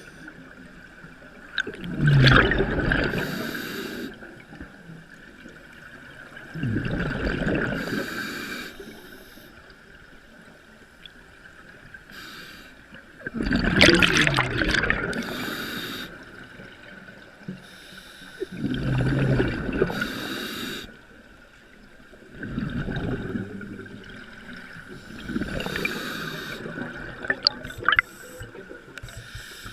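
Rushing water and wind noise on a moving boat, swelling in surges every few seconds over a faint steady whine.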